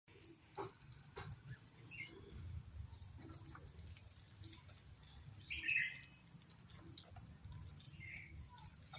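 Outdoor ambience with a few short bird chirps, the loudest about five and a half seconds in, over a low rumble, a steady faint high tone and scattered small clicks.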